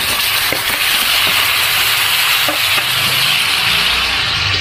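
Fried chicken pieces sizzling in hot oil as they are tipped into a wok of sautéed garlic, onion and chili, a steady hiss with a few light knocks of the metal ladle stirring them.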